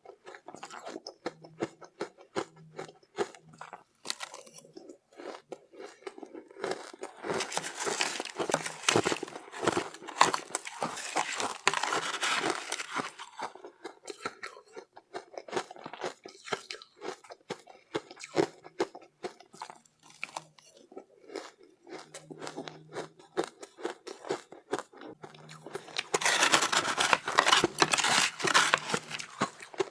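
Close-up crunching and chewing of soft, powdery ice: many quick crackly bites, with two longer, louder spells of dense crunching, about a third of the way in and near the end.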